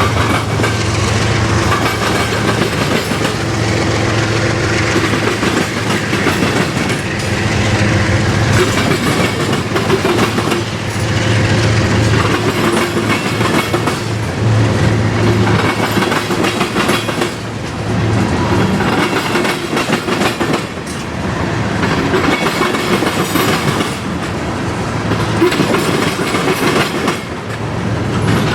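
A train's railroad cars rolling past close by, with wheels clacking over the rail joints in a steady, loud run.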